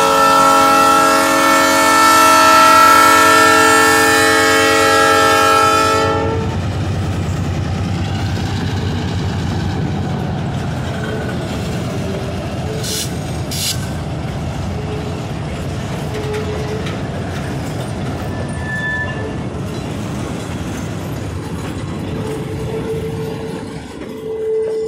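Switcher locomotive's air horn sounding one long chord for about six seconds, then a freight train's boxcars rolling past with a steady rumble and wheel clatter. Two sharp bangs come about halfway through.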